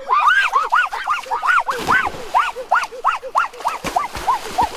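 An animal giving a steady run of short, high calls, each rising and then falling in pitch, about two to three a second. There is a brief noisy rustle near two seconds in.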